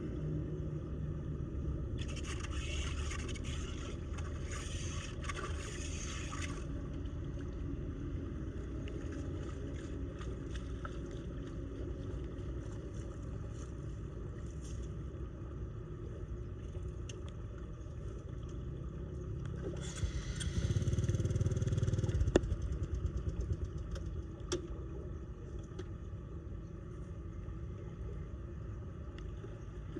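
Floodwater draining into a cleared storm drain with a steady low rumble, broken twice by a few seconds of louder scraping and splashing, with a few sharp knocks near the second one.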